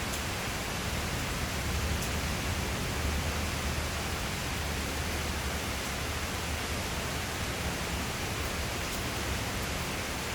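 Steady heavy rain falling, an even hiss, with a faint low rumble swelling a couple of seconds in.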